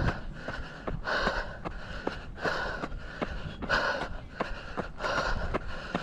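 A runner's hard, rapid breathing, a loud gasp about every half second, from exertion on a steep uphill trail. Steady footfalls tap between the breaths.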